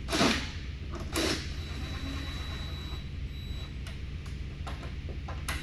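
Two sharp plastic snaps about a second apart as grille clips are pushed through from behind, then a few lighter clicks. The clips are brittle plastic that break out easily on these trucks.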